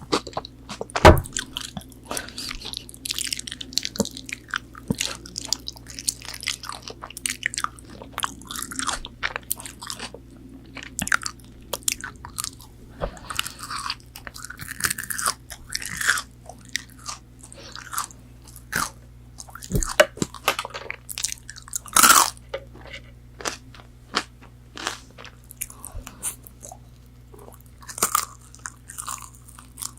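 Close-miked biting, crunching and chewing of crispy McDonald's chicken nuggets, with a run of sharp crunches. The loudest bites come about a second in and again around two-thirds of the way through.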